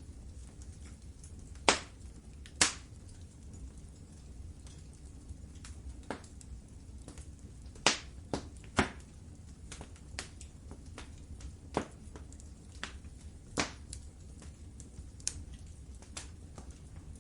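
Wood fire crackling in a fireplace: irregular sharp pops and snaps, a few much louder than the rest, over a low steady rumble of the flames.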